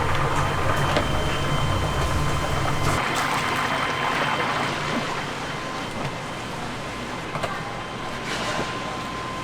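Hot oil sizzling steadily in a deep fryer, with a low hum that stops about three seconds in.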